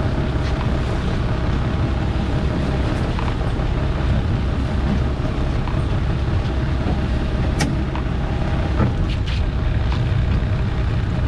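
Boat engine running steadily with a low rumble, with a few sharp clicks or knocks on top, the clearest about two-thirds of the way through.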